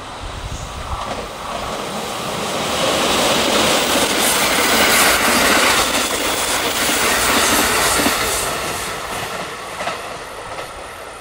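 JR West limited express Shirasagi electric train passing at speed, its wheels clacking over the rail joints. The noise builds as the train comes close, is loudest in the middle with a run of rhythmic clicks, then fades as it pulls away.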